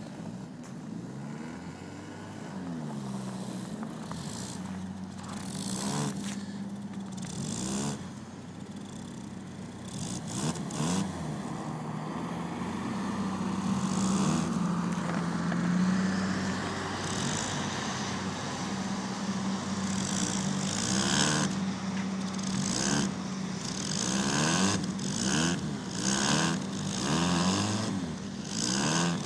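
A car engine, the 1993 Nissan Altima's four-cylinder, running steadily, its revs rising and falling several times. Repeated rushing noises come and go over it, more often and louder in the second half.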